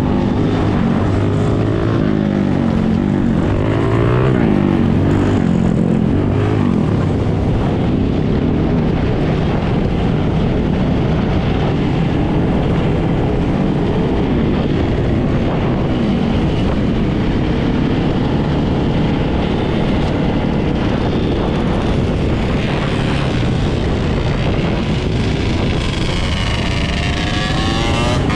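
Engines of many dirt bikes and ATVs running together in a large group ride, several revving up and down at once, with one engine revving high near the end.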